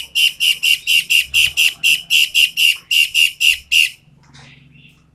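Toed matahari bird calling a rapid, even series of loud, sharp, high notes, about five a second, that stops abruptly about four seconds in.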